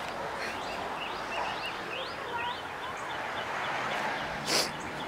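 Birds chirping outdoors, a run of short rising chirps repeating two or three times a second over a steady background hiss. A single short, louder noise comes near the end.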